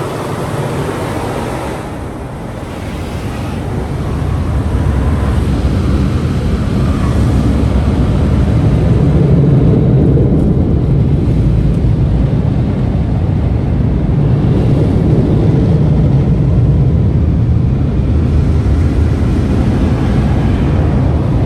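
Car wash tunnel dryer blowers, heard from inside the car, that grow louder about four seconds in and then keep up a loud, steady rush of air against the car.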